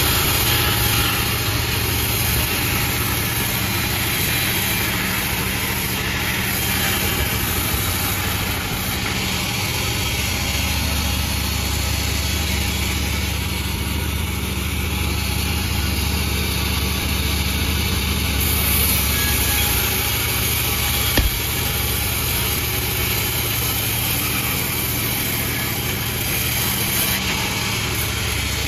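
Sawmill engine running steadily, with one sharp knock about three-quarters of the way through.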